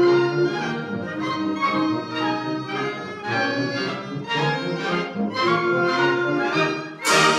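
Concert wind band of woodwinds and brass playing, with sustained chords and moving melodic lines; a sudden loud accented entry near the end.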